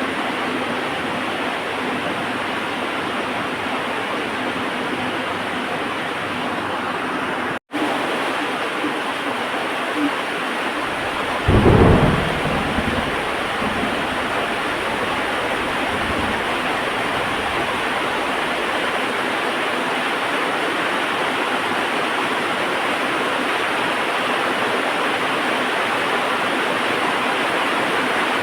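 Steady heavy rain with a single thunderclap a little under halfway through, followed by a few seconds of low rumble fading out. The sound cuts out completely for an instant a few seconds before the thunder.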